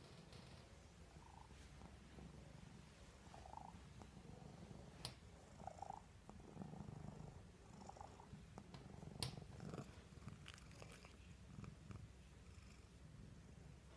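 Domestic cat purring steadily and faintly while suckling, with a few short soft sounds and two sharp clicks a few seconds apart.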